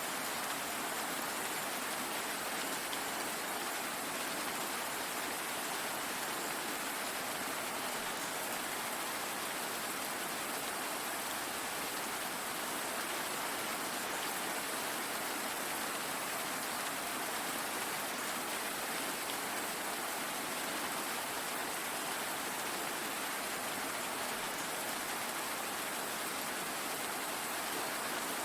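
Steady rain falling, an even hiss of many drops with no separate strikes or changes.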